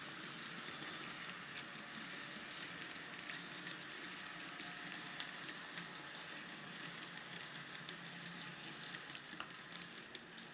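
N gauge model train running slowly along the track: a faint steady hum with scattered light clicks.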